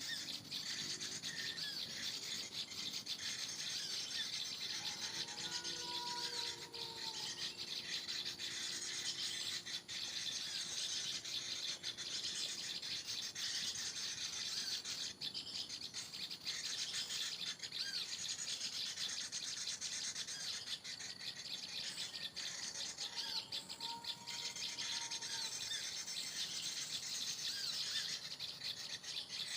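Small birds chirping and calling continuously in a dense chorus of high, short notes, with a lower whistled note heard twice, about 6 s in and again near 24 s.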